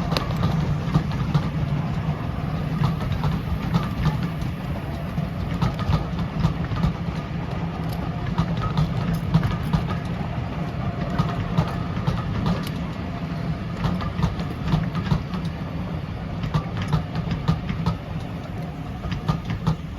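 Steam-hauled passenger train running past on the rails behind GWR 2-8-0 No. 2857: a steady rumble of rolling stock with frequent clicks of wheels over rail joints.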